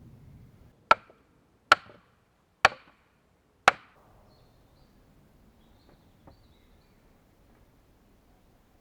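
An axe chopping into wood: four sharp strikes about a second apart, then a single faint knock a little past the middle.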